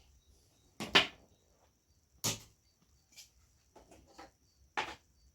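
Hard knocks and clacks of TV parts being handled and set down: a loud one about a second in, another just after two seconds, then several lighter ones toward the end.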